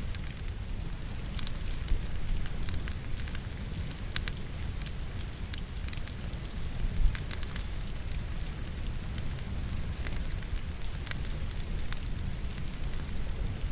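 Logs burning in a fireplace, crackling with scattered sharp pops over a steady low rumble, mixed with rain. One pop about seven seconds in is a little louder.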